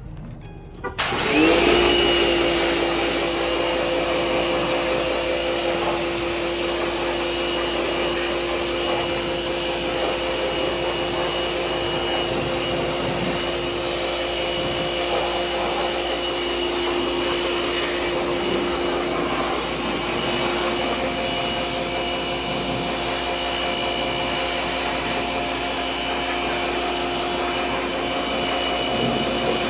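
A motor-driven cleaning machine starts about a second in, its pitch rising as it spins up, then runs steadily under a loud rushing hiss.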